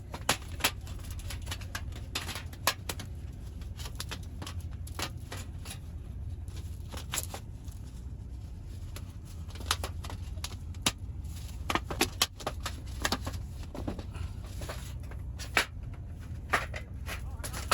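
Irregular sharp clicks and taps, scattered unevenly, over a low steady rumble.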